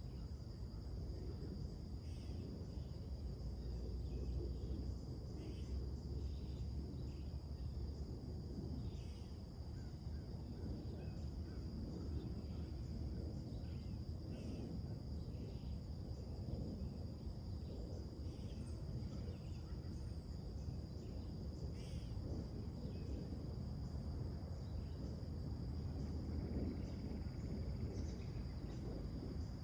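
Summer morning outdoor ambience: a steady high insect trill runs throughout, with scattered short bird chirps and calls over a low background rumble.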